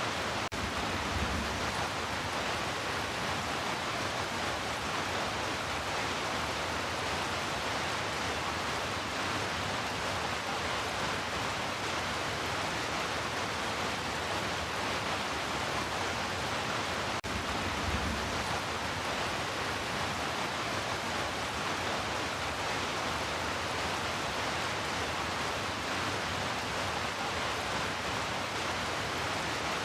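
Heavy rain falling in a steady hiss, with a brief low thud about a second in and again about eighteen seconds in.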